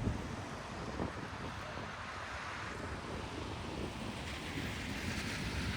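Steady outdoor rushing noise of wind and rain, with wind buffeting the microphone early on and a broader hiss swelling up about four seconds in.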